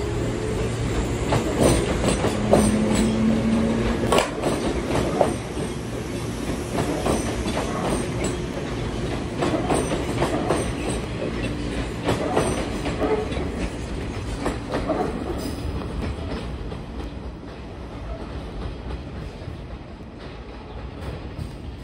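Train running past on the rails, its wheels clacking over the rail joints, the sound dying away over the last several seconds.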